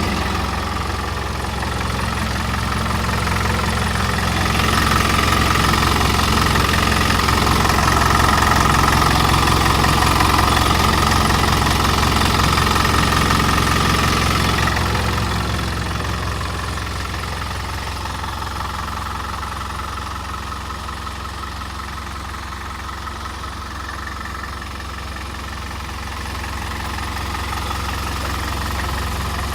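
Used truck's engine running, steady and close, louder for a stretch about a third of the way in before settling back.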